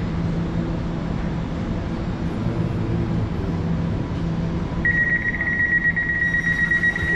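Elizabeth line Class 345 train with a steady low hum and rumble; about five seconds in a high door-warning beep starts, pulsing briefly and then held.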